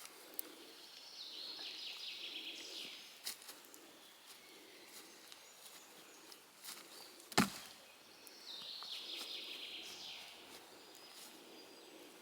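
A small songbird singing the same short, stepped, falling phrase twice, several seconds apart, over quiet woodland ambience. A single sharp click or snap about seven seconds in is the loudest sound.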